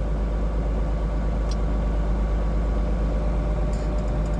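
Tractor diesel engine idling steadily while it warms up on a cold morning, heard from inside the cab, with a couple of faint clicks.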